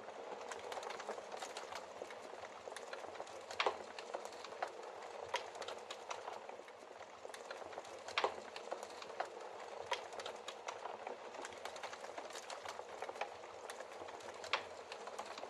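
Wood fire in a fireplace crackling, with a steady hiss and irregular snaps and pops; three louder pops stand out, about a quarter, halfway and near the end.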